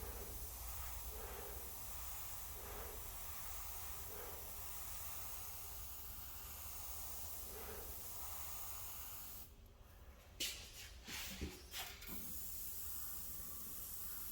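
Compressed-air paint sprayer hissing steadily as paint is sprayed. About two-thirds of the way through the hiss stops, a few clicks and taps follow, and then the spraying starts again.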